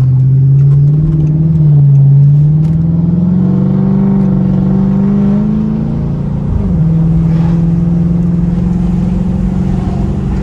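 Straight-piped Dodge Charger R/T's 5.7-litre HEMI V8 pulling under acceleration, its exhaust note rising in pitch, then dropping sharply on an upshift about six and a half seconds in and holding steady.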